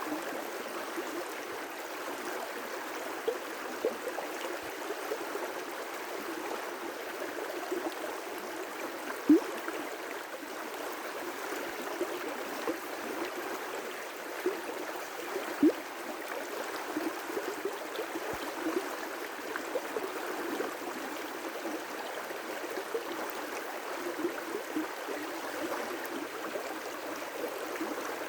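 Water running over river rapids: a steady rushing with constant bubbling and gurgling, and a few louder splashes, the loudest about nine and sixteen seconds in.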